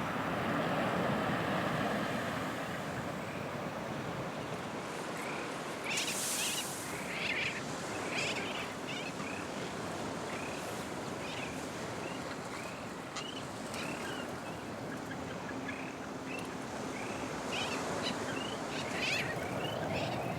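Steady wind and surf noise, with many short, high bird calls from about six seconds in.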